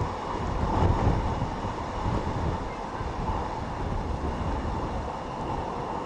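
Strong gusty wind buffeting the microphone, over the steady distant drone of jet aircraft engines at the airfield. The gusts peak about a second in.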